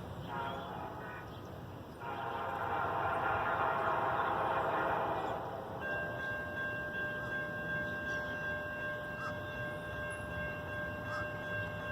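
Amtrak passenger train pulling into a station: a swell of rolling train noise, then from about halfway a steady whine of several held high tones that keeps on, with a few faint clicks.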